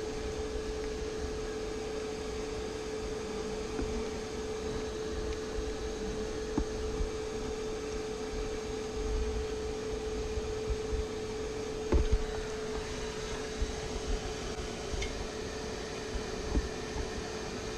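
Bee vacuum running with a steady hum while it sucks up bees from the cluster, with a few light knocks and one louder knock about twelve seconds in.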